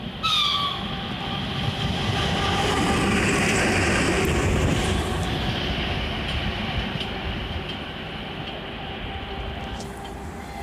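EP1M electric locomotive passing, running alone without a train. It starts with a sudden short high tone falling in pitch, then the rail noise swells to a peak about four seconds in and slowly fades, with a steady whine underneath.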